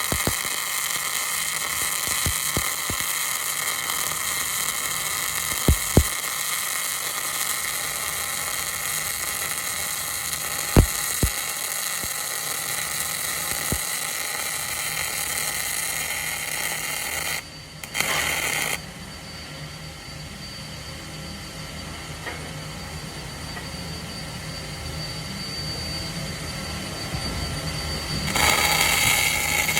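Wire-feed welding arc set at 28 volts and 500 wire feed speed, laying a 1/4-inch fillet weld. It gives a steady hiss with a few sharp pops. About two-thirds through it breaks off and runs quieter, then grows louder again near the end.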